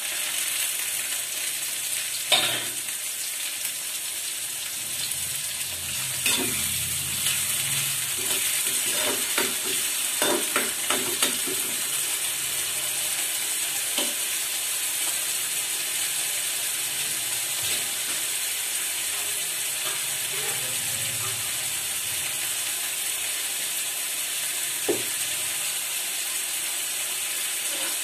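Onions, cumin and chopped tomatoes sizzling steadily in hot ghee in a kadhai. A spatula scrapes and knocks against the pan now and then, most often about six to eleven seconds in.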